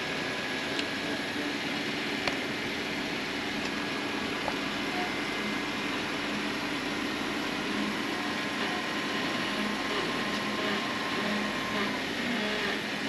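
Jeep Wrangler engine running steadily at crawling speed as the Jeep climbs over boulders, with two sharp clicks in the first few seconds.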